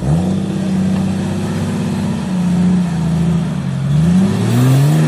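Off-road 4x4's engine revving under load: the pitch jumps up at the start and holds, sags a little past the middle, then climbs twice near the end.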